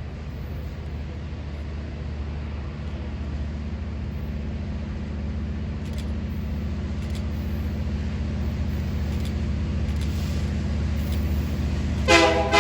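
Diesel locomotive approaching, its low engine rumble slowly growing louder, then its air horn sounding loudly near the end.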